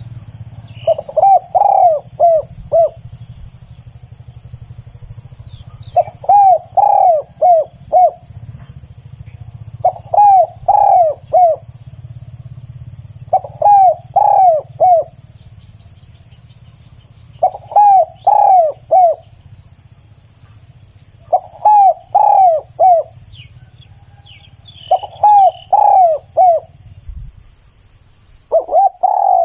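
Spotted dove cooing: about eight clear, loud phrases of three or four coos each, one phrase every three to four seconds.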